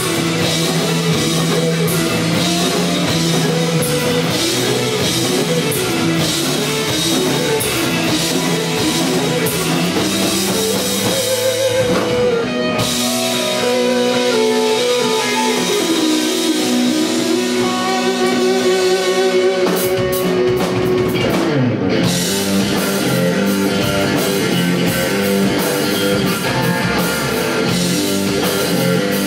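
Live rock band playing an instrumental passage with no vocals: electric guitar, bass and drum kit. About halfway through, the bass and kick drum drop out for several seconds under a guitar melody, then the full band comes back in.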